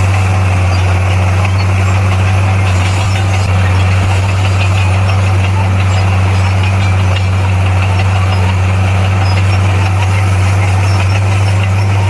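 Heavy construction machine's diesel engine running steadily at an even speed, a loud, steady low hum with no change in pitch.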